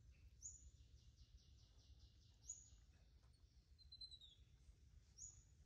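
Near silence with faint bird calls: three short high chirps spaced a couple of seconds apart, a quick trill of about five notes a second in the first half, and a short falling note near the end, over a faint low outdoor rumble.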